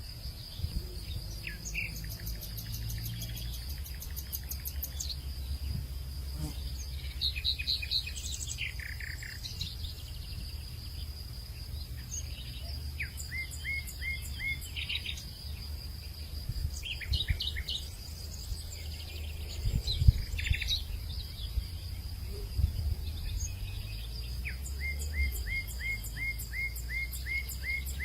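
Outdoor hillside ambience: several birds calling in short chirps and quick runs of repeated notes over a steady high-pitched insect drone. A low rumble runs underneath, with a single sharp knock about 20 seconds in.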